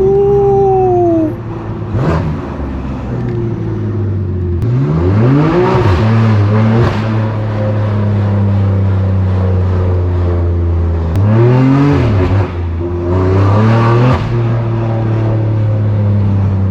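Straight-piped S55 twin-turbo inline-six of a 2018 BMW M3 Competition running at a steady low note. Its revs climb and drop back a few times: a falling note right at the start, then rises about five seconds in and again around eleven and thirteen seconds.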